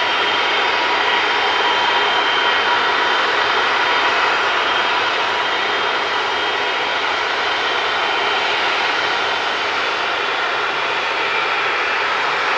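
Boeing 747-400 jet engines running loud and steady, a dense rush with a high whining fan tone held throughout.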